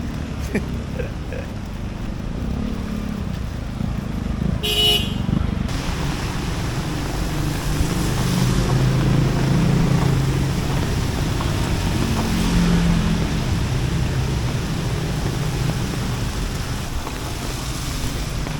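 Road traffic passing with engines running, and a short vehicle horn toot about five seconds in.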